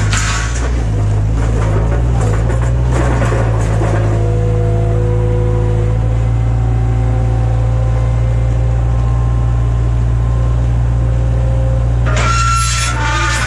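A steady low engine hum throughout, with a few sustained higher tones over it in the middle and a brief noisy clatter near the end.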